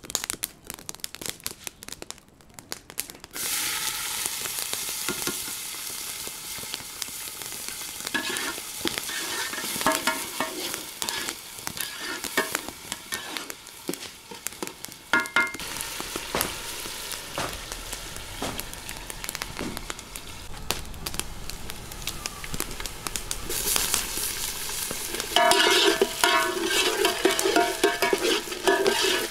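Food dropped into hot cooking oil in a steel pot starts sizzling suddenly about three seconds in and keeps frying, while a metal ladle stirs and scrapes against the pot, loudest near the end. Before the sizzle, a wood fire crackles under the pot.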